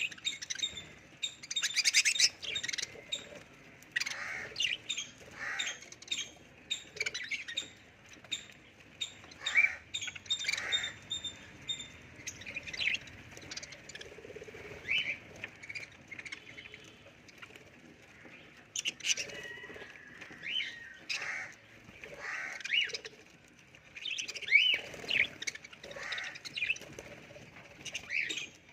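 Budgerigars chirping and chattering in short, irregular calls throughout, with louder bursts now and then.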